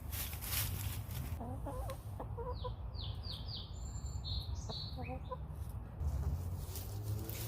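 Backyard hens clucking softly a few times, with a quick run of short, high, falling chirps in between, over a steady low rumble.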